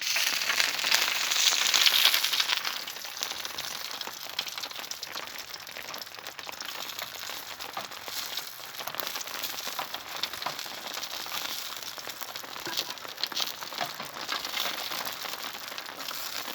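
Rain pattering on an umbrella overhead, a dense crackle of drops that is heaviest in the first couple of seconds and then settles to a steady patter.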